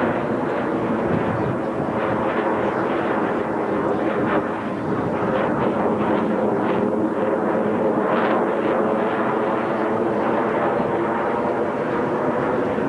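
Jet engine noise from F/A-18 Hornets in flight, a steady sound with faint held tones, dipping slightly about four and a half seconds in.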